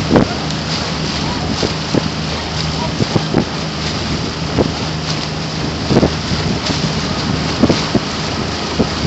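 Wind buffeting the microphone on the water during outrigger canoe paddling, with irregular splashes and a steady low hum underneath.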